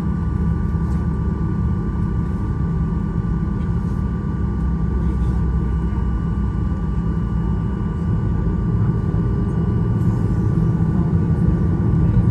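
Steady low cabin hum of a parked Boeing 737-800, with a few faint steady whine tones over it and faint voices in the background.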